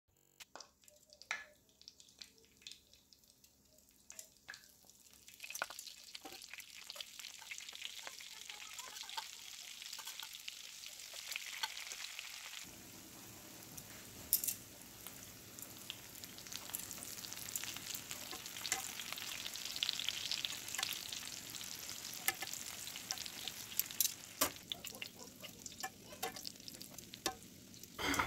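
Breaded morel mushrooms frying in foaming fat in a cast-iron skillet: sparse crackles at first, then a steady, louder sizzle from about five seconds in. Metal tongs click against the pan a few times.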